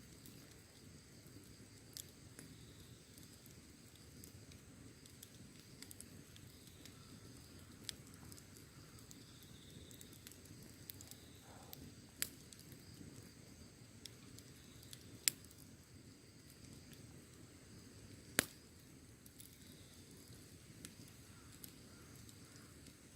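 Wood fire burning: a low steady rumble with sparse sharp crackles and pops every few seconds, two of them louder than the rest in the second half.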